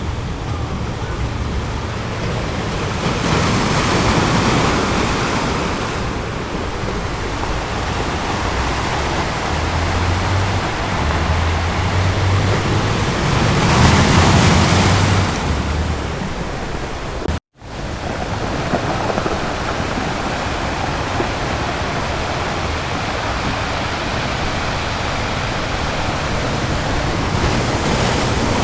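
Ocean surf on a beach: a steady rush of waves, swelling louder twice as waves break. It cuts out for an instant about two thirds of the way through, then the surf carries on steadily.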